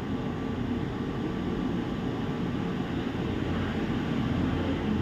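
Steady low hum and hiss of background machinery, with faint steady tones over it and no change.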